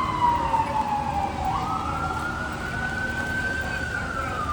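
Emergency vehicle siren wailing. Its pitch falls slowly, jumps back up about a second and a half in, climbs and holds, then falls again near the end, over steady street noise.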